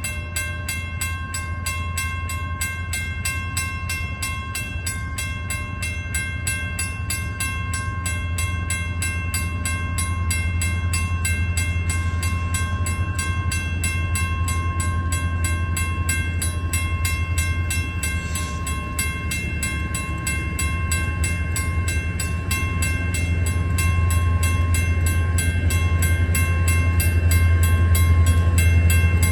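Diesel freight locomotive running with a steady low drone and a few steady higher tones above it, slowly growing louder toward the end.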